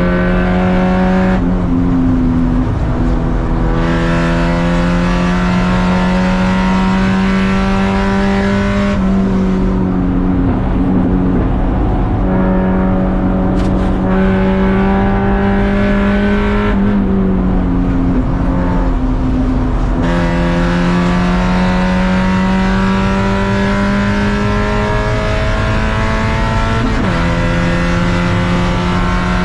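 Race car engine under hard acceleration, its pitch climbing steadily for several seconds and then dropping abruptly at each shift, about four times. Between pulls are short spells where the engine note turns softer and thinner, as if off the throttle for braking.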